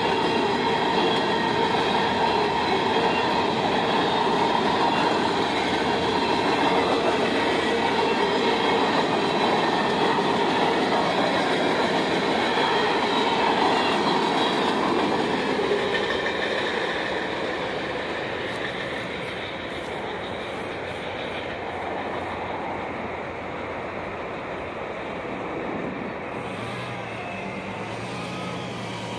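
Freight train cars rolling past, steel wheels running over the rails, with a steady high ringing tone over the rumble through the first half. The sound fades over the last dozen seconds as the end of the train passes.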